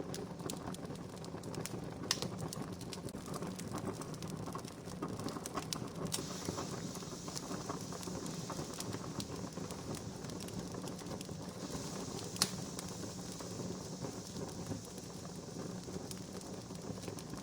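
Wood campfire crackling steadily, with many small snaps and two louder pops. A soft high hiss comes and goes in the second half.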